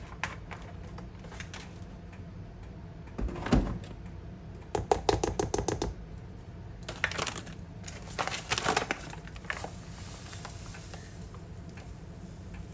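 Kitchen utensils clinking and tapping against a bowl and measuring cup while cornbread batter is measured out: a thump about three seconds in, a quick run of light taps about five seconds in, and more clattering a couple of seconds later.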